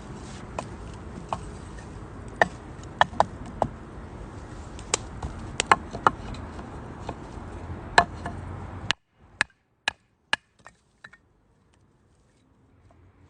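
Wood fire burning in a small UNIFLAME Nature Stove, crackling with sharp irregular pops over a low steady rush. About nine seconds in, the rush cuts out abruptly and a few isolated pops follow in near quiet.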